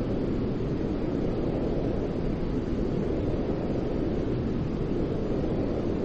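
Steady, unbroken white noise with a deep rumbling tone, most of its weight low and only a soft hiss above, never changing in level.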